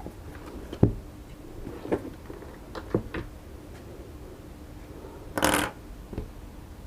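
Small parts being handled on a table: a few sharp knocks and clicks, the loudest about a second in, then a short rustling burst about five and a half seconds in.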